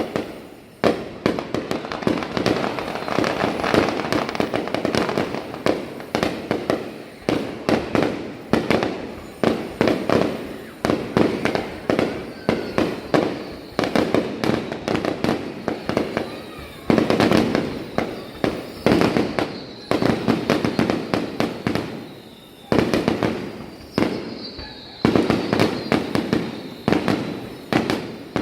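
Aerial fireworks display: shells bursting in rapid succession, bang after bang with crackling in between, with a few short lulls between volleys.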